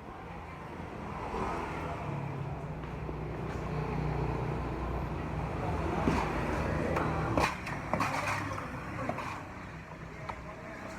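A motor vehicle's engine running, a low hum that grows louder toward the middle and fades again near the end, with a few sharp clicks and knocks.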